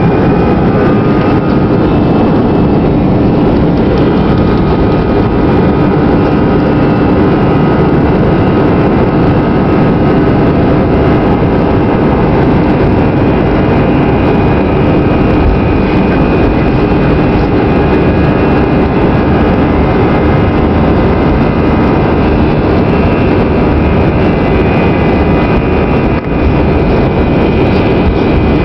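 Airbus A320 jet engines at high takeoff thrust: a loud, steady rumble with a high whine that finishes rising in pitch about a second in, then holds steady.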